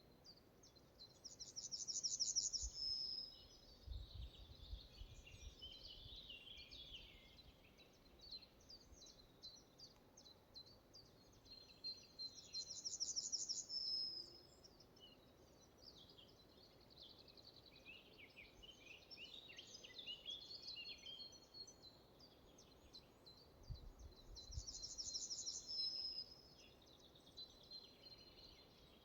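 Forest birdsong: one bird repeats a short, rapid high trill ending on a held note about every eleven seconds, three times, while other birds chirp softly in between. A few faint low rumbles come about four seconds in and near the end.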